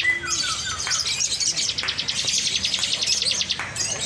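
Lovebird singing a long, very rapid, high-pitched chattering trill, with a few short falling notes near the start.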